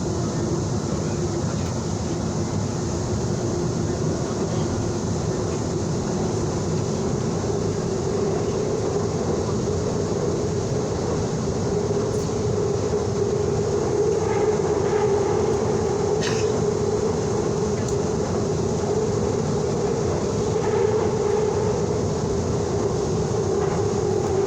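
Seoul Subway Line 2 train running, heard from inside the car: a steady rumble of wheels on track under a droning motor tone that climbs slightly, with a few sharp clicks in the second half.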